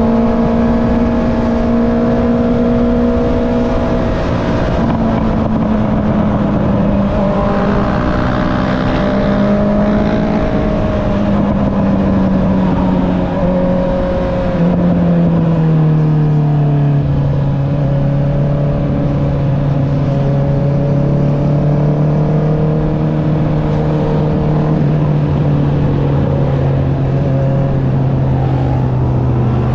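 Honda CB650R inline-four engine through an Akrapovic exhaust while riding, with wind noise. The engine note falls in a few steps, then holds a steady cruise, and starts to rise again near the end.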